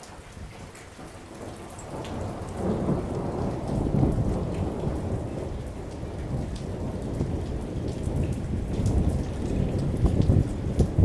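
Thunder rumbling long and low in a rainstorm. It builds about two seconds in and swells again near the end, over steady rain with scattered drop ticks.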